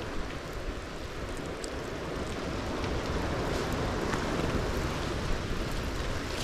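Steady blizzard wind rushing and rumbling on the microphone.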